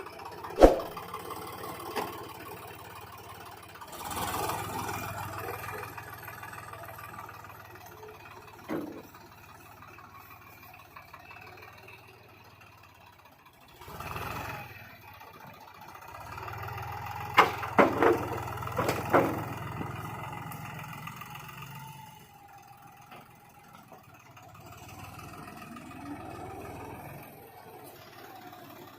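Same Deutz Fahr Agromaxx 4050 E tractor's three-cylinder diesel engine running, its level swelling for several seconds twice. Sharp knocks come through: a loud one just after the start, one about a third of the way in, and a quick cluster a little past the middle.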